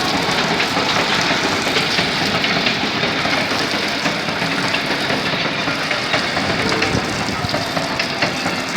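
Heavy downpour: a loud, dense, steady hiss of rain and running water, dotted with many small ticks.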